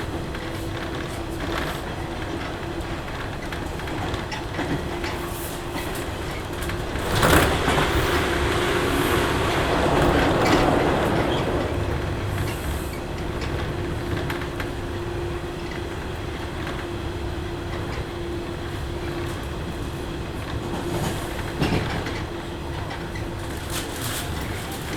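Running sound inside a JR West 103 series electric train carriage: wheels clicking over rail joints under a steady hum. A louder rushing swell starts about seven seconds in and lasts about five seconds.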